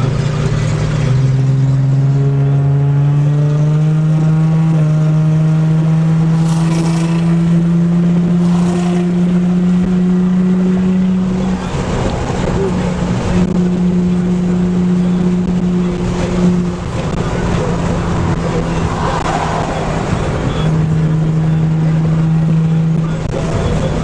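Car engine pulling under load, its drone climbing slowly in pitch for about ten seconds as the car gathers speed. It then breaks off and settles back to a steadier note, with a couple of further dips in the second half.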